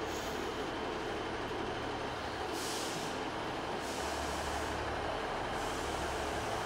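Steady rumble of trains at a railway station, with two short hisses of released air, one about two and a half seconds in and one about five seconds in. A low engine hum joins about four seconds in.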